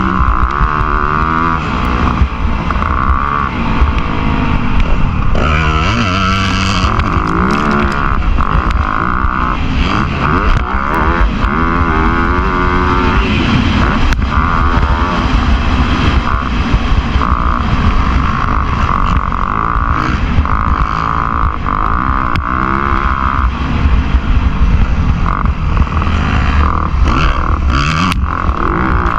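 Motocross bike engine racing, its pitch rising and falling over and over as the rider accelerates, shifts and backs off.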